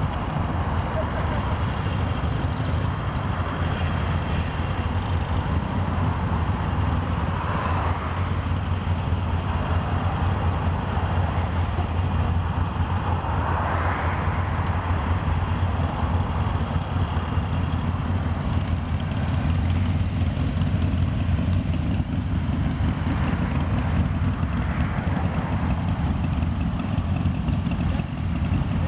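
Several Harley-Davidson Sportster air-cooled V-twin engines idling together with a steady low rumble. The sound swells briefly a few times as individual bikes throttle up and pull away.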